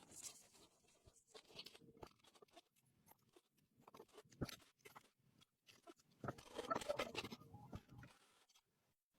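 Faint handling noises: scattered light clicks and knocks, with a louder stretch of scraping or rubbing about six seconds in that lasts a second and a half.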